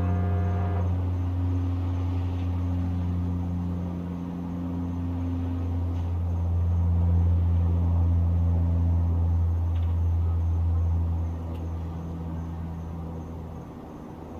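Low, steady engine rumble of distant town traffic, swelling around the middle and fading near the end, with a faint high insect trill over it. A horn-like pitched tone dies away just under a second in.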